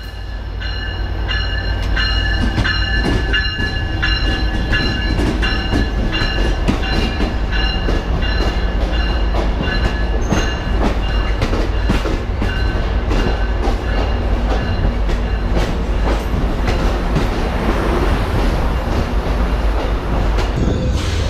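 Passenger train rolling slowly along the station tracks: a steady low rumble with wheels clicking over rail joints all through, and a thin high steady whine during the first half.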